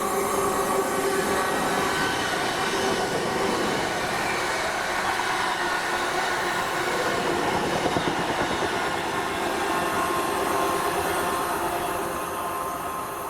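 A train running past on the rails: a steady loud rush and rumble of wheels on track, with a few held tones riding over it, easing off slightly near the end.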